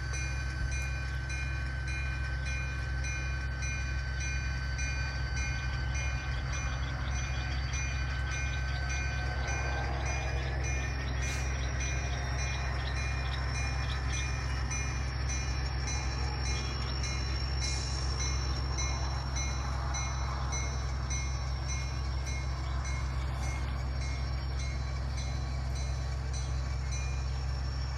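Model locomotive's ESU LokSound decoder playing its engine sound through the onboard speaker: a steady engine rumble with several whining tones, some of which rise in pitch about ten seconds in and then hold.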